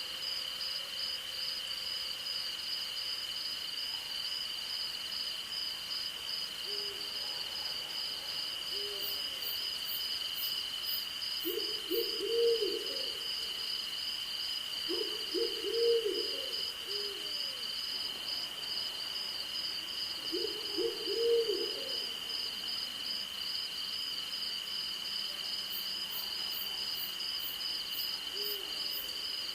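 Night-time insect chorus: a steady high cricket trill over a second, fast-pulsing chirp. Over it an owl gives low, wavering hoots, a few soft ones and three louder bouts in the middle stretch.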